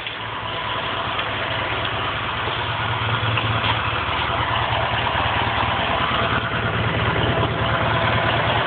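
Sears garden tractor engine running steadily at idle on a cold start, catching right at the beginning and slowly getting a little louder.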